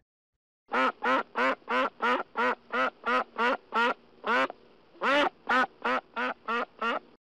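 A duck quacking in a quick series of about seventeen quacks, roughly three a second, with a short break a little past the middle.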